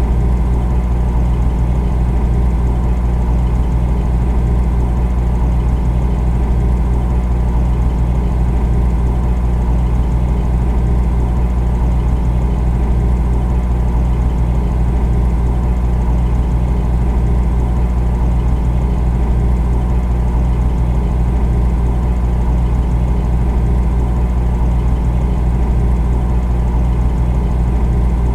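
Refrigerator running with a steady, unchanging low hum.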